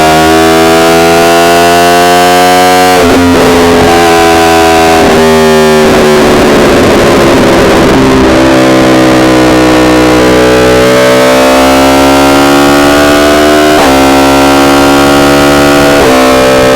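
Yamaha R1 inline-four engine running on the move, its pitch drifting slowly and changing abruptly several times as the revs shift. The recording is so loud that it is distorted.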